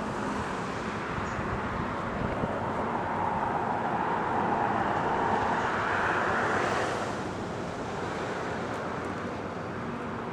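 Road traffic running steadily, swelling in the middle as a vehicle passes and easing off again near the end.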